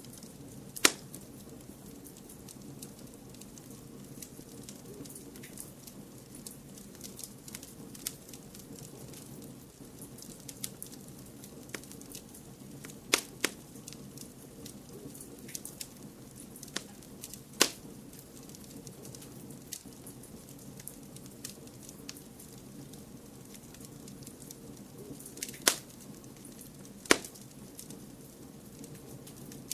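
Fireplace fire crackling over a steady low rushing background, with many small ticks and a handful of sharp, louder pops scattered through it.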